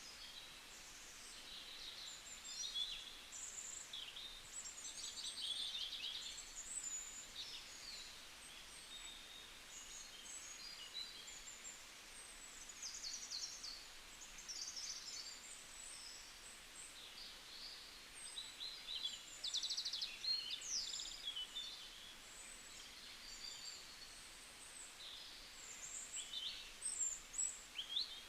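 Several small songbirds chirping and twittering, many short high calls and trills overlapping without a break, over a faint steady hiss.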